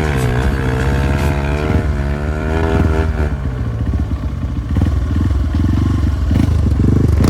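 Motorcycle engine revving, its pitch dipping and rising for the first three seconds, then dropping to a lower, rough chugging.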